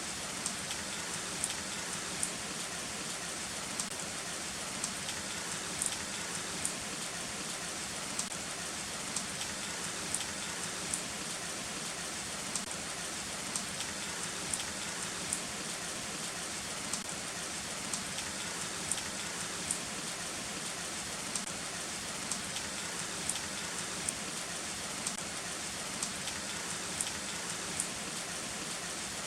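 Heavy rain falling steadily, a constant hiss with frequent sharp drops tapping close by, one or two a second. No thunder is heard.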